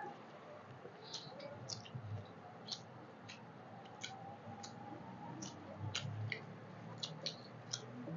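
Eating sounds: irregular small wet clicks and smacks of mouths chewing rice and chicken curry eaten by hand, with a couple of soft low thumps about two and six seconds in.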